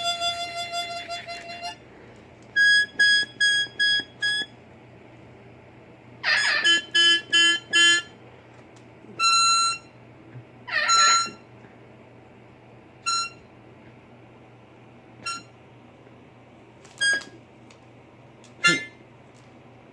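Harmonica playing short, clipped notes in quick groups of four or five, then single notes spaced a second or two apart, interleaved with a couple of harsher eclectus parrot calls.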